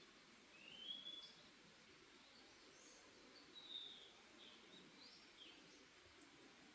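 Faint forest ambience with scattered songbird calls: a short rising chirp about a second in, a falling call near four seconds, and a few short notes after, over a steady low hiss.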